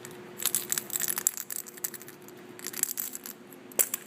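A kitten at play: quick, scratchy crinkling and clicking in two bursts, then one sharp click near the end.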